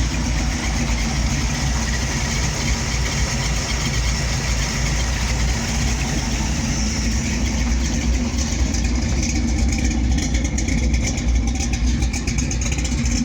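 1976 Chevy C10 pickup's V8 engine running steadily at a low, even speed.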